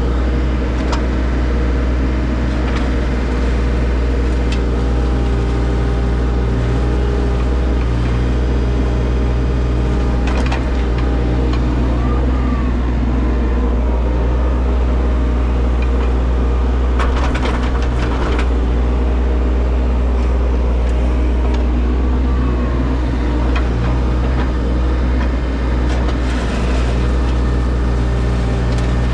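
Engine of an earthmoving machine running steadily under load, heard from inside its cab as a loud low hum, with a few short clunks along the way.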